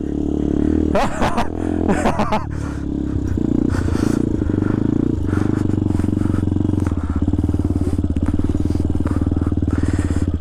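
Dirt bike engine running under the rider. The revs vary over the first couple of seconds, then hold at a steady low pace.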